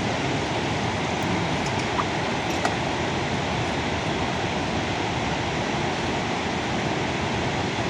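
Steady heavy rain, a dense even noise with no change in level.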